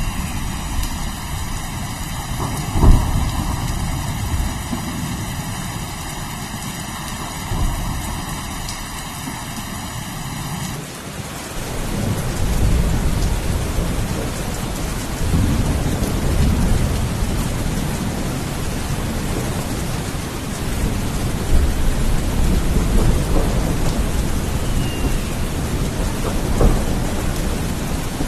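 Steady rain with thunder: a sharp thunderclap about three seconds in, then rolling rumbles swelling again and again through the second half. The sound changes character abruptly partway through.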